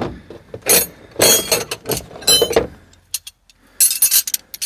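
Metal tools and parts clinking and clattering as they are handled, in several short irregular bursts, with a brief metallic ring about two seconds in.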